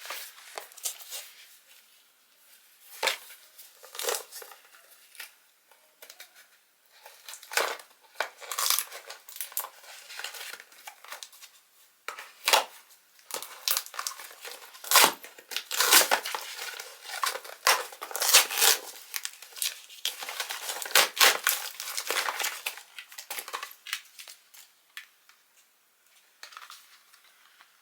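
Hands crinkling and tearing material in irregular bursts of rustling, which thin out near the end.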